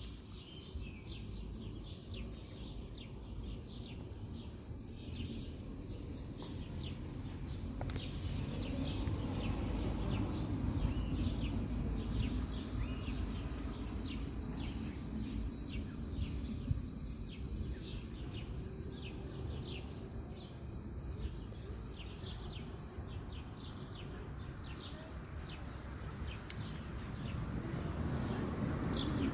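Small birds chirping: short high chirps repeating a few times a second, over a low steady outdoor rumble.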